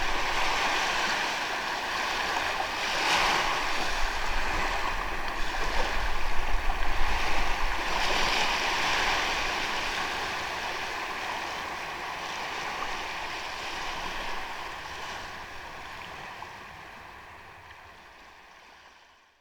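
Sea waves washing onto a sandy beach, with swells of surf every few seconds, fading out gradually to silence over the second half.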